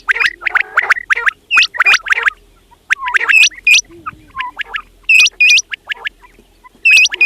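Quails calling: loud, short whistled notes that hook sharply upward, repeated in pairs every second or two, over denser chattering calls in the first two seconds. There is a brief lull a little before three seconds in.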